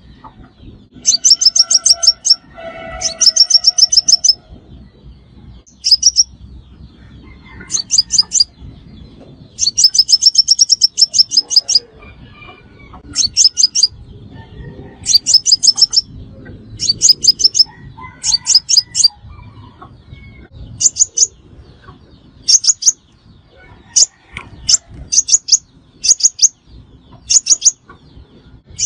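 Sunbird calling: short bursts of rapid, high, sharp chipping notes, repeated about every one to two seconds. A fainter, lower bird call sounds near the start and again about two-thirds of the way through.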